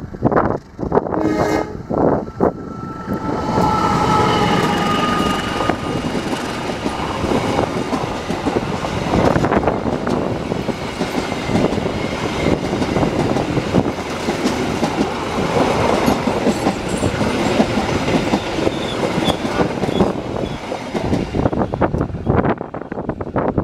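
Diesel-hauled passenger train passing close by: the locomotive's horn sounds in the first few seconds, then the coaches run past with a steady rumble and the clatter of wheels over rail joints.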